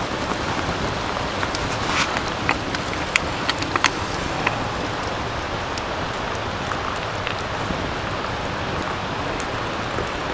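Wood fire burning in a bonfire stand: a steady hiss with scattered sharp crackles and pops, most of them bunched a couple of seconds in.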